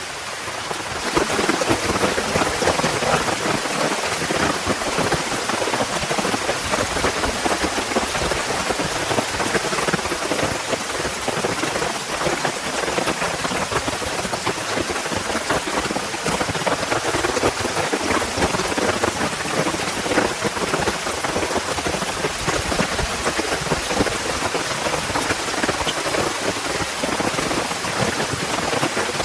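Heavy rain falling steadily, with many close drops pattering on a surface, picking up about a second in.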